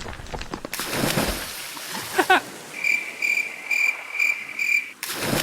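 Cartoon sound effects: a rush of noise, a short wavering squeal about two seconds in, then five evenly spaced high-pitched beeping pulses.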